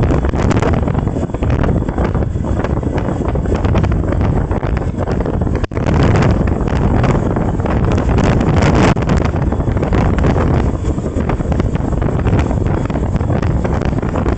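Loud wind buffeting on the microphone, a steady dense rush strongest in the low range, with a momentary dropout a little before six seconds in.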